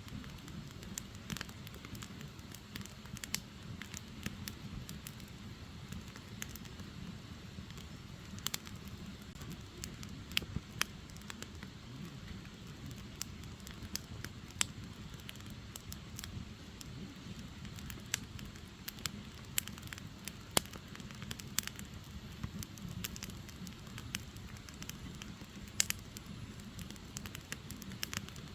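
Firewood burning in a fire: a steady low rush of flames with frequent sharp crackles and pops at irregular intervals.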